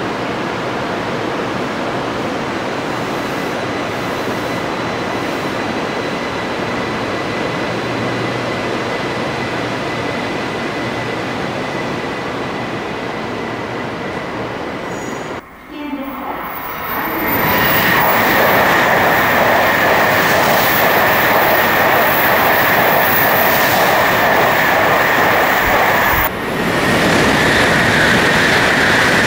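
Tokaido Shinkansen N700-series train running along the platform: a steady rumble as the train moves off. After a sudden break about halfway in, the sound is louder, with a steady high whine over the rush of a train running past the platform.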